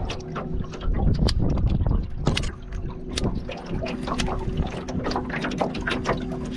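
Water splashing and slapping against a kayak's hull in quick, irregular ticks, over the steady hum of a small boat motor, with wind buffeting the microphone.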